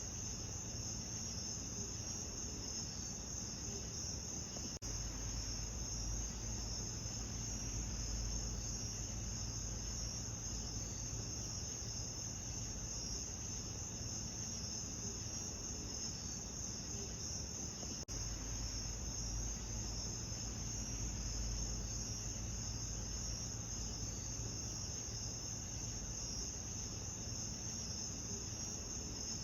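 Steady chorus of crickets trilling, over a low rumble. Two brief dips in level, about five and eighteen seconds in.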